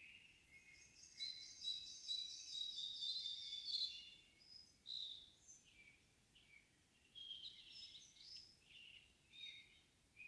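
Songbirds singing in a calm evening forest. A long, high, busy song phrase runs for about three seconds starting a second in, followed by shorter separate calls and trills.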